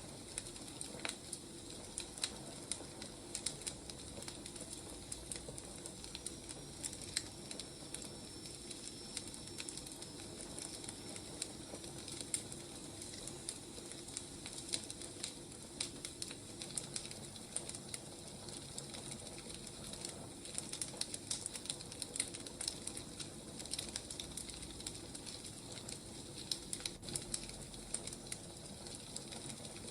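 Wood fire crackling, with a steady low hiss and frequent irregular sharp pops and snaps.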